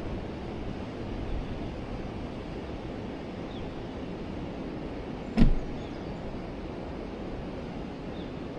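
Forest river flowing with a steady rushing sound. A single sharp knock sounds about five seconds in, louder than the water.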